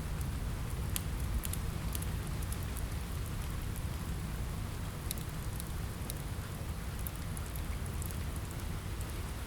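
Steady rain with a deep, even rumble underneath, mixed with scattered sharp crackles from a wood fire.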